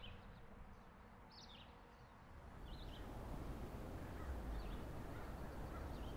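Faint outdoor ambience with a few short, scattered bird chirps. About two seconds in, a low, steady rumble comes up and holds under them.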